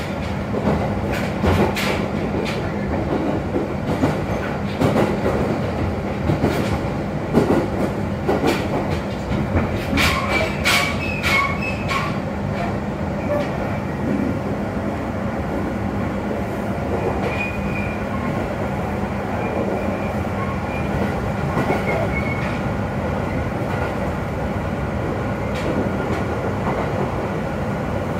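Running noise heard inside a train carriage at speed: a steady rumble with a low hum. Sharp rail-joint clicks come through the first dozen seconds, with short high wheel squeals around ten seconds in, and the run then settles to an even rumble.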